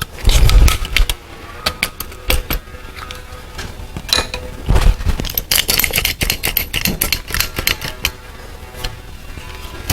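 Irregular clicking and knocking of a silicone tube and caulking gun being handled and readied, with a heavier thump about half a second in and another about five seconds in.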